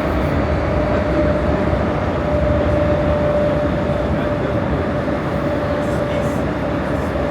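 Prague metro line A train running at speed through the tunnel: a steady rumble with one continuous whine held at a fixed mid pitch.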